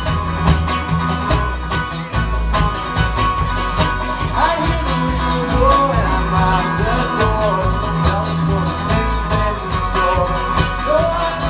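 A live band plays a country/bluegrass-style tune with plucked strings over a steady beat. A sung melody comes in about four and a half seconds in.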